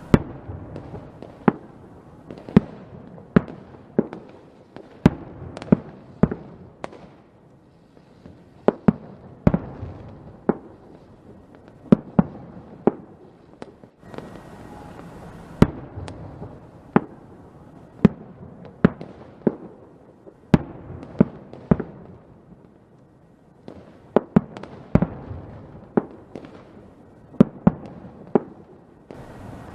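A fireworks display: sharp bangs of bursting shells going off irregularly, one or two a second, over a continuous rumble and crackle, with brief lulls.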